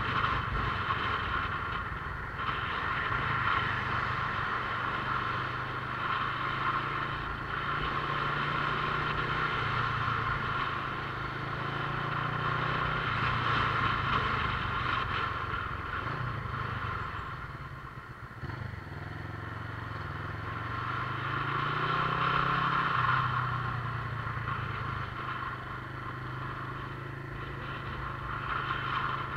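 Motorcycle engine running under way, its note shifting with speed: it eases off and drops in pitch a little past halfway, then rises again as the bike picks up speed.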